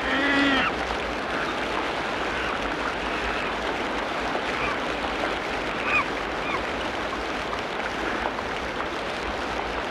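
Tropical rainforest ambience: a dense, steady hiss with scattered animal calls on top. The loudest is a call with several curving tones in the first second, and short chirps follow, most clearly about six seconds in.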